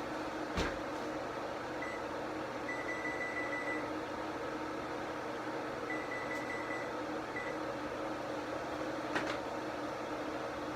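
Steady mechanical hum, with a knock about half a second in, a click near the end, and faint high-pitched beeping tones coming and going in between.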